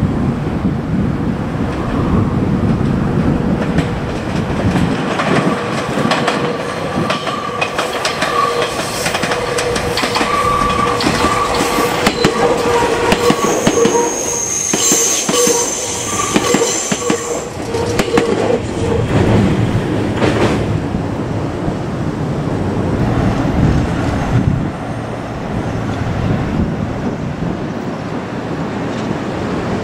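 Meitetsu electric train passing at close range, its wheels clacking over rail joints in a fast run of clicks, with a high wheel squeal through the middle of the pass.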